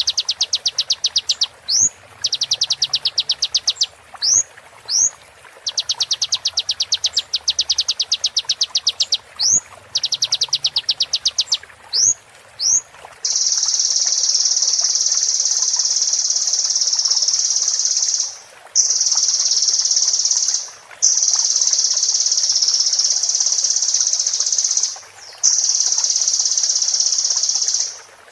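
Sunbird song: fast, even ticking trills broken by single sharp rising whistles. About halfway through it gives way to a steady high buzz that stops briefly four times.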